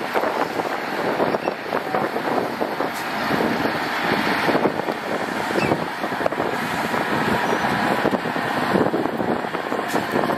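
Heavy earthmoving machinery at work, a dump truck or bulldozer on soil: a loud, steady, rough rumble with many small crackles and no pauses.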